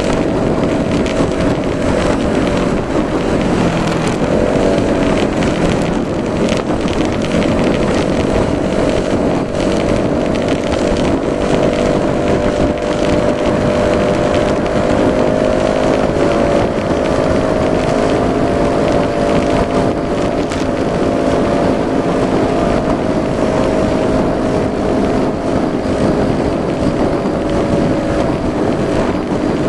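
Yamaha Majesty S 155 scooter's single-cylinder engine running at a steady speed while being ridden, with wind noise on the microphone. The engine note wavers briefly about four seconds in, then holds steady.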